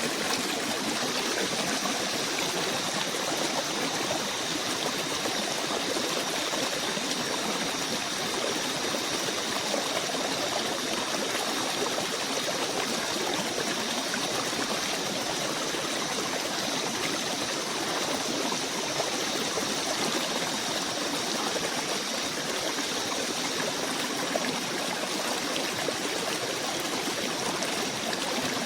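Steady rush of running water from a forest stream, even and unbroken, with two faint steady high-pitched tones held above it.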